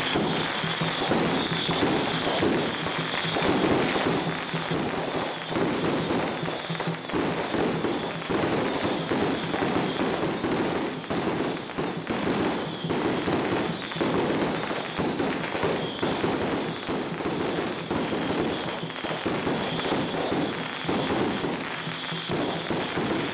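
Strings of firecrackers going off in a rapid, continuous crackle, with music playing underneath.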